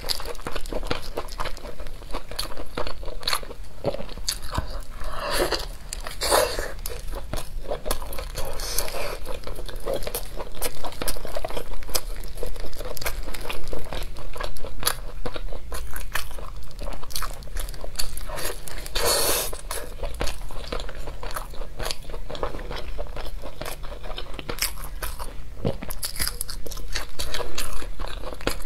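Close-miked chewing and biting on braised pork trotters: a dense run of wet clicks and soft crunches, with louder bursts about five seconds in and again just before twenty seconds.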